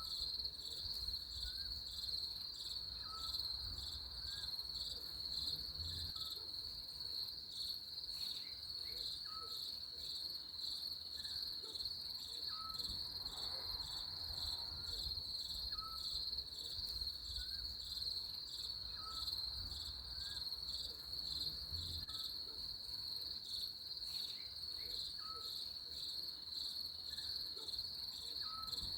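Insects chirping in a steady, fast-pulsing high-pitched chorus. A short rising note recurs faintly about every two seconds beneath it.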